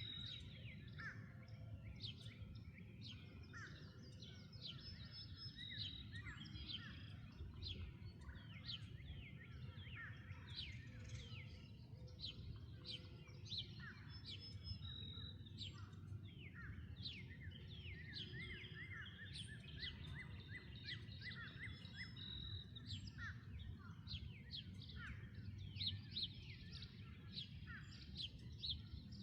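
Many small birds chirping and calling at once, a steady chatter of short, quick downward-sliding notes, over a faint low rumble.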